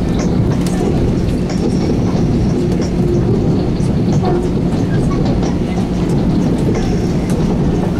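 Long Island Rail Road train running along the track: a steady rumble with a low hum and scattered clicks of the wheels over the rails.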